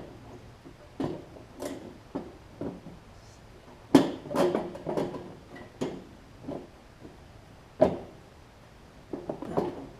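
Irregular knocks, clanks and rattles of hands and tools working at a riding mower's deck belt cover to get it off. The sharpest knocks come about four seconds in and again near eight seconds.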